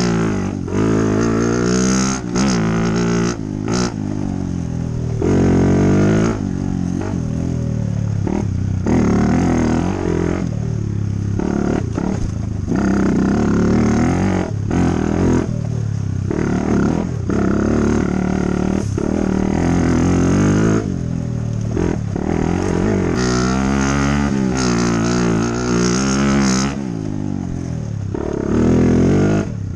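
Dirt bike engine running under way on a trail, its pitch rising and falling over and over as the throttle is opened and closed.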